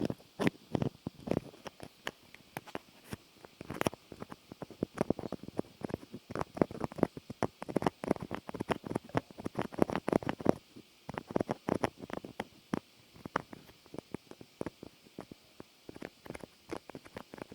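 Rapid, irregular clicking and scratching taps close to the microphone, coming in clusters with brief pauses.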